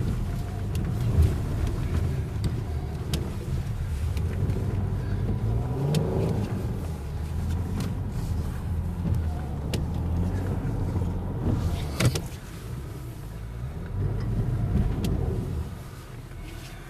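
Car engine revving as its wheels spin in deep snow, the car stuck in its earlier tracks. The pitch rises a few seconds in and again near the end, with a sharp click about twelve seconds in.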